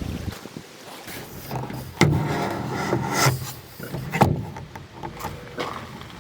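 Knocking and rubbing against a canoe, with a sharp knock about two seconds in and a louder one about four seconds in.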